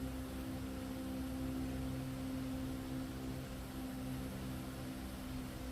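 Steady low electrical hum with a faint hiss, unchanging throughout; no distinct event.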